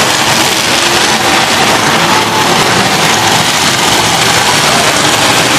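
Engines of several demolition derby cars running together in a steady, loud din as the cars push and grind against each other, with no single crash standing out.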